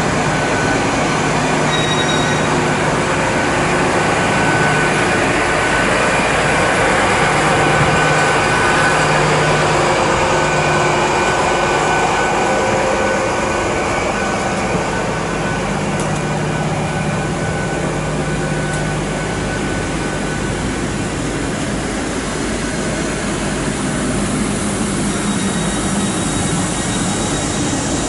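Great Western Railway Class 800 Intercity Express Train pulling in and standing at a platform. Its engines give a steady hum.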